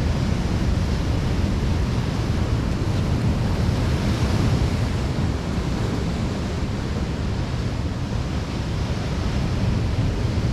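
Heavy ocean surf breaking and washing on a rocky shore, a steady loud rush with wind buffeting the microphone.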